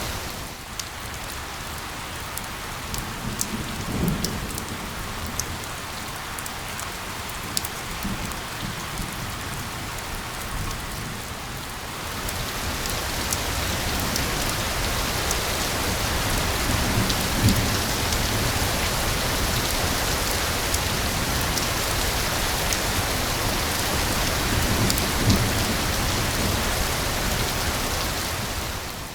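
Steady rain hiss with individual drops ticking sharply, growing denser and louder about twelve seconds in. A few soft low rumbles sound under it.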